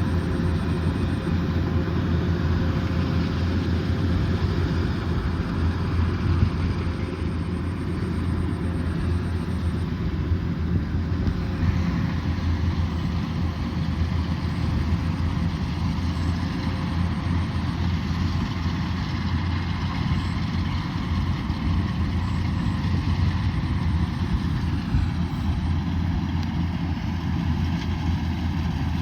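Kubota DC108X combine harvester running steadily: a continuous engine drone with machinery noise, no sudden changes.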